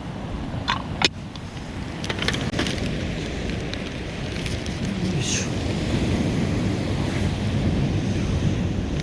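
Wind buffeting the microphone over the wash of surf on a beach, a steady low rumble. Two sharp clicks come about a second in, and light clicks and rustles follow a second later.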